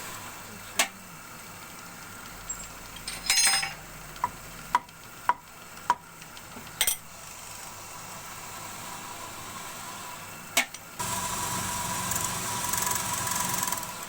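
Scattered sharp metallic clinks and taps, some ringing briefly, as tools and metal parts are handled at a wood lathe. About three quarters of the way in, a steady electric machine hum starts abruptly, typical of a lathe motor running.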